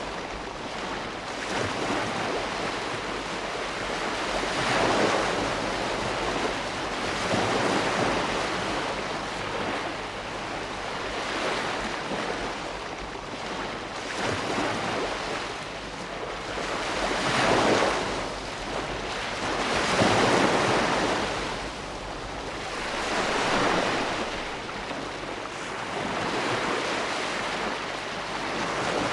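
Ocean waves breaking on a shore: a constant wash of surf that swells into louder breaking surges every few seconds, the biggest about two-thirds of the way through.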